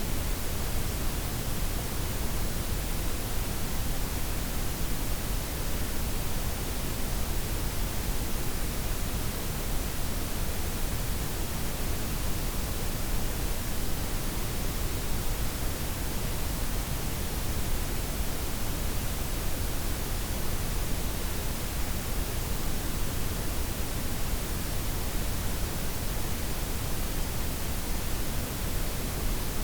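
Steady blend of synthetic white, pink and brown noise: an even, unchanging hiss with a full low rumble beneath it and no breaks or events.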